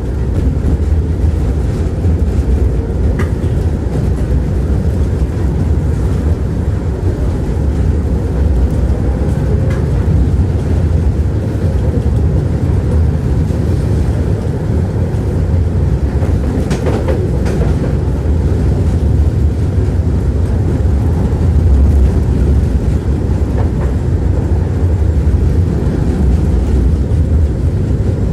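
Tram running along its track, heard from inside the car: a steady low rumble of the wheels on the rails, with a few faint clicks.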